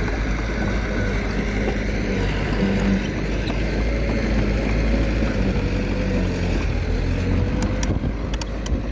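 Small bulldozer's diesel engine running steadily under work, its pitch wavering slightly, with a few sharp clanks about eight seconds in.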